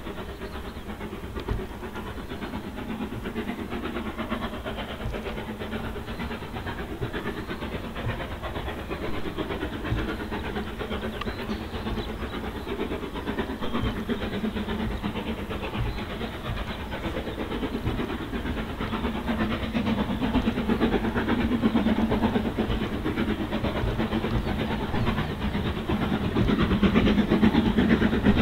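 Steam train on the move, most likely S&DJR 7F 2-8-0 No. 53809 working its train, with a steady steam hiss and running noise from the rails. It grows steadily louder over the last ten seconds.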